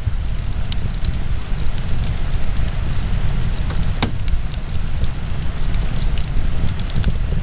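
Wood fire burning in a fireplace: a steady low rumble with frequent small crackles, and one sharper pop about four seconds in.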